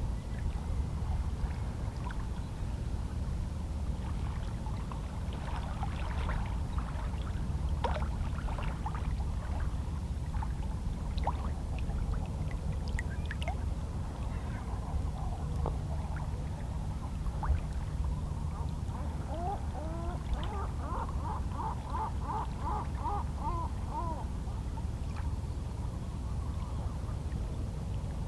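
Small, calm sea waves lapping against shoreline rocks, a steady low wash of water. Seabirds call in the distance, and about twenty seconds in one gives a quick run of about ten repeated calls.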